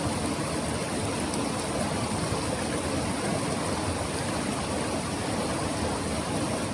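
Clear mountain stream flowing: a steady rush of water.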